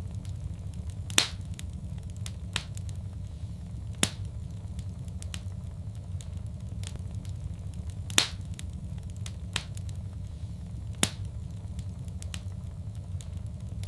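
Wood fire crackling over a steady low rumble, with four sharp pops a few seconds apart and a few softer ticks between them.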